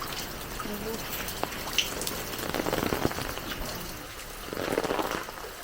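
Water splashing and pouring, swelling louder twice about two seconds apart, with a few small knocks.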